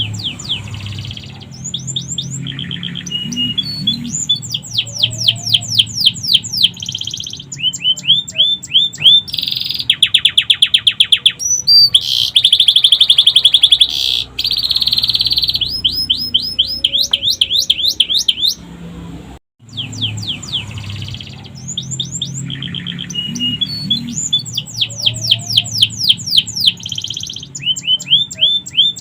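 Domestic canary singing a fast, continuous song of rapid descending trills and buzzy phrases, its song filled with sikatan londo phrases. The song breaks off briefly about two-thirds of the way through and the same run of phrases starts again, over a low hum.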